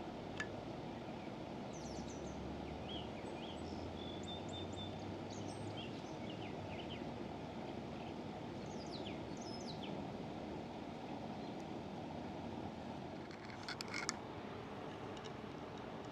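Outdoor background noise with birds chirping on and off. A low hum runs for a few seconds early on, and a short cluster of clicks comes near the end.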